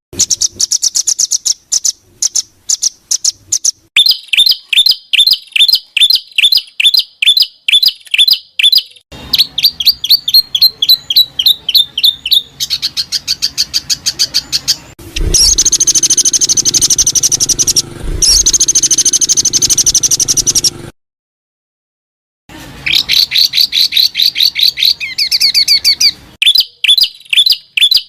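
Songbird song made of rapid-fire repeated high chirps and trills, edited from several recordings that switch abruptly from one pattern to the next. There is a silent break of about a second and a half roughly two-thirds of the way through.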